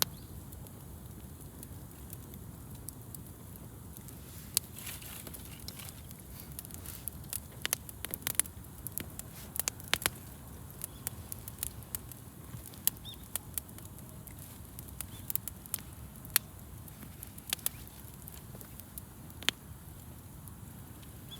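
Wood campfire crackling: irregular sharp pops and snaps, thickest around the middle, over a steady low rumble of burning.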